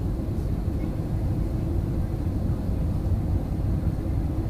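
Steady low rumble of an airliner heard from inside the cabin: engine and airflow noise with no distinct events.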